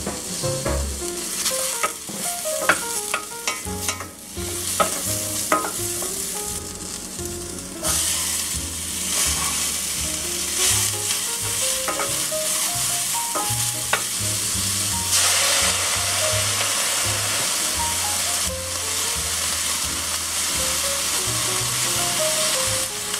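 Diced sweet potato and chopped bell peppers sizzling in olive oil in a stainless steel frying pan while they are stirred with a wooden spoon. The sizzle grows louder about eight seconds in and again about halfway through.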